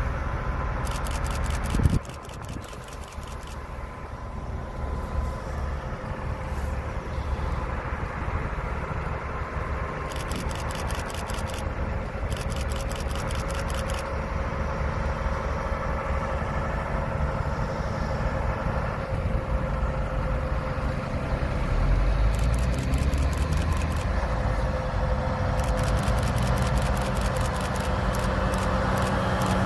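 Heavy truck engine running steadily with a low rumble. A sudden loud knock comes about two seconds in, and stretches of fast, even clicking or rattling come and go.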